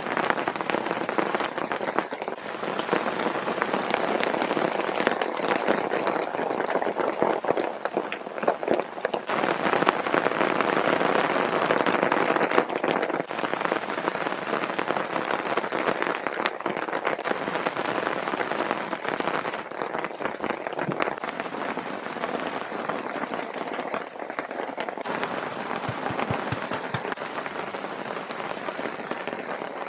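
Steady rain, a dense crackle of drops falling on garden foliage, changing abruptly in tone several times.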